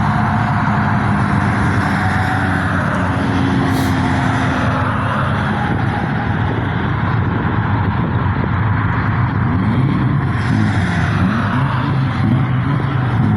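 Car engines running at a car meet, a steady low drone with several short rises and falls in pitch in the second half as engines are revved.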